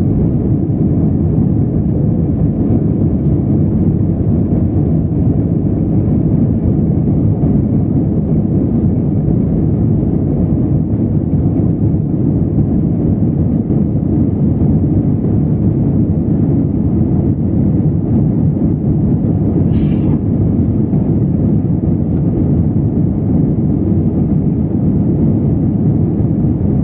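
Steady low rumble of engine and airflow noise heard inside an Airbus A320's passenger cabin in flight.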